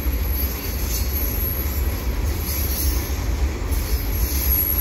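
Freight cars of a passing Canadian Pacific mixed freight train rolling by: a steady rumble of steel wheels on rail.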